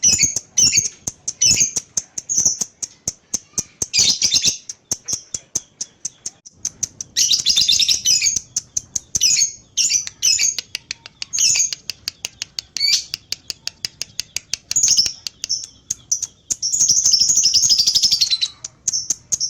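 Lovebird singing its long 'ngekek' chatter: rapid high chirps strung together in runs, with two long unbroken trills, one about seven seconds in and one near the end.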